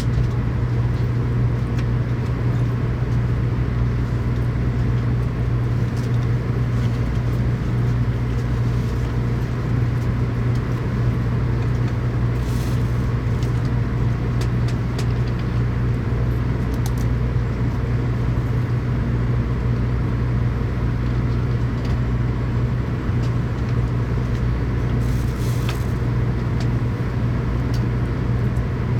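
Steady running noise inside a Shinkansen passenger car as the train draws in to a station stop: a constant low hum with a strong steady drone, over a wash of rolling noise, with two short hisses along the way.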